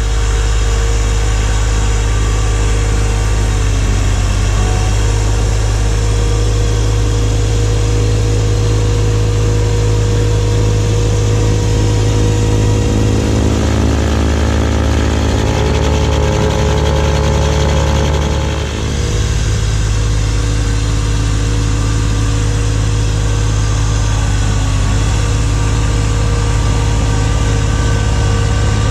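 Kubota B2601 compact tractor's three-cylinder diesel engine running steadily, with a brief change in its note about two-thirds of the way through.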